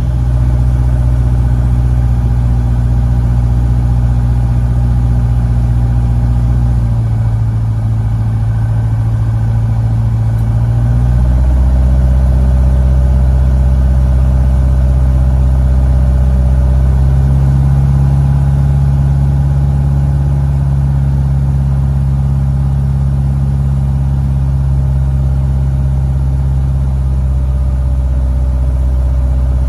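Cessna 150D's four-cylinder Continental O-200 engine and propeller droning steadily in the cabin in flight, the low tones of the drone shifting slightly in pitch a few times.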